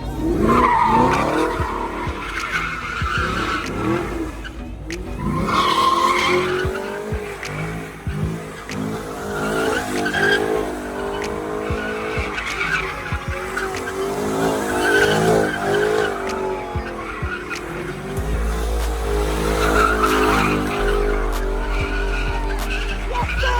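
A car sliding with its tyres squealing while its engine revs up and down in repeated surges.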